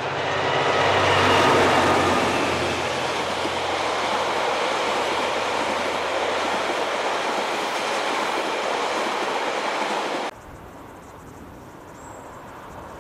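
Two diesel locomotives pass close with a deep engine drone, then a rake of passenger carriages rolls by with steady wheel-on-rail noise. The sound cuts off suddenly about ten seconds in, leaving only a faint background.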